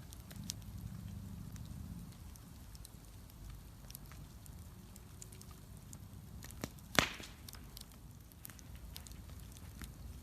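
Bonfire burning, with scattered small crackles over a low rumble and one loud sharp pop about seven seconds in.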